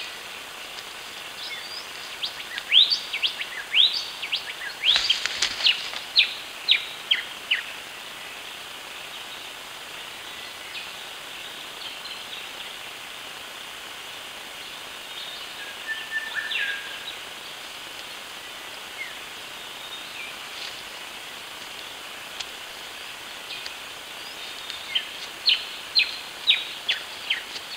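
A bird calling in runs of short, sharp chirps: one run from about two to eight seconds in, a few notes in the middle, and another run near the end, over a steady background hiss.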